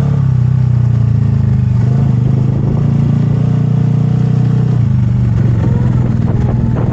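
Motorcycle engine running steadily, its pitch shifting slightly just after the start and again about five seconds in.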